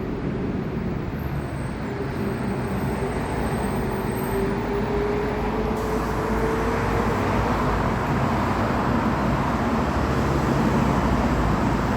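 Steady road traffic noise, with a faint hum that slowly rises in pitch over the first half.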